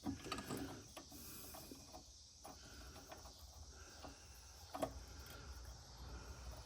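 Faint scattered clicks of small metal mower parts being handled and fitted together, the clearest about five seconds in, over a low steady hum.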